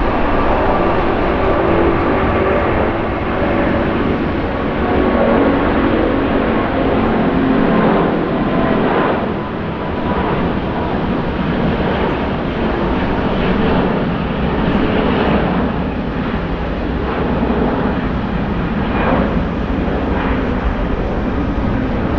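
Jet airliner engines at close range: a steady loud rushing roar, with a low engine hum audible in the first half.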